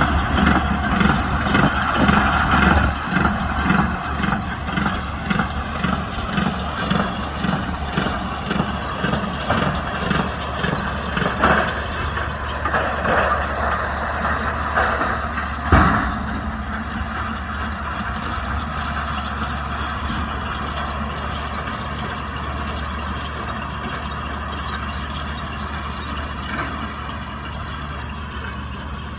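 Kubota M125X tractor's diesel engine running under a baler's load, with a rhythmic beat of about two a second in the first part. One sharp knock about halfway through, then the engine runs on steadier and a little quieter.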